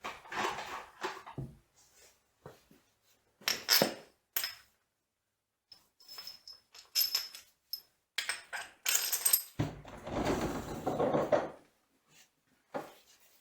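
Steel tools and machine parts being handled: scattered metallic clinks and knocks, some ringing, with a longer stretch of clattering rummaging about ten seconds in.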